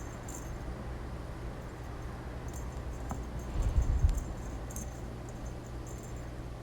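Cats playing with a cat teaser toy: faint, repeated light jingling and rattling, with a dull thump about three and a half seconds in, over a steady low hum.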